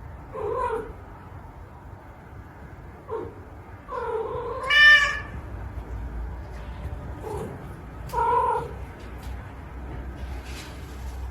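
Domestic cat meowing repeatedly: about five calls a second or more apart. The longest and loudest call comes near the middle and rises sharply in pitch at its end.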